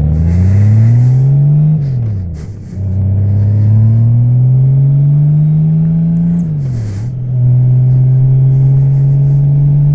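2014 Honda Valkyrie's 1832 cc flat-six engine accelerating through the gears: the pitch rises, drops at an upshift about two seconds in, rises again, drops at a second upshift about seven seconds in, then holds steady at cruising speed.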